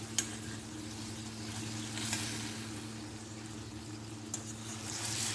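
Rice dumplings sizzling in oil in an iron kadhai as a steel spoon turns them over, with a few light clicks and scrapes of the spoon against the pan.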